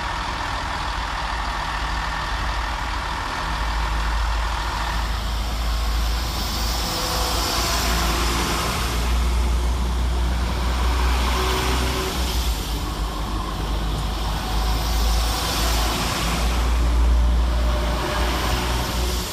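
Two coupled Class 172 Turbostar diesel multiple units pulling out under power, their underfloor diesel engines running with a deep sound that swells and eases several times.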